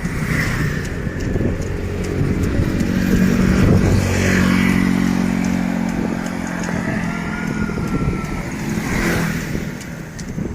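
A motorcycle engine running close by, its steady note loudest about four seconds in, over wind noise on the microphone.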